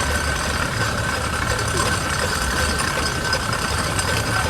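A 1936 Aveling and Barford steamroller running past with a steady low rumble, people talking in the background.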